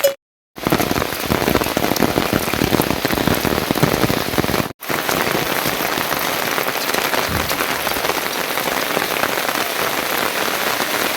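Steady rain falling, cutting out to silence twice for a moment, once just after the start and again a little before halfway.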